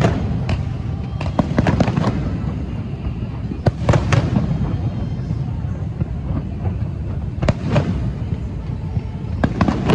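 Fireworks going off: a string of sharp bangs and crackling clusters, with heavy bursts about four seconds in and again near the end.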